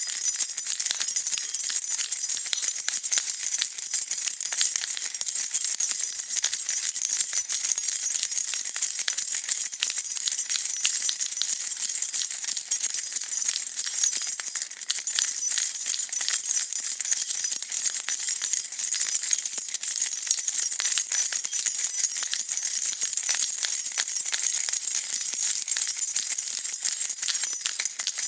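A bunch of metal keys jingling continuously, shaken in a fast, unbroken rattle of small bright clinks.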